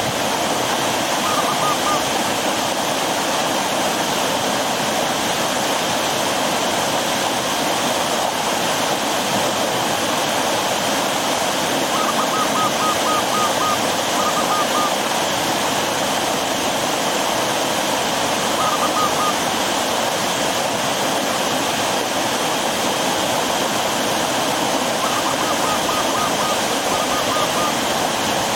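River water from a waterfall rushing steadily over rocks. A bird's short, rapid call of quick repeated notes sounds over it a few times.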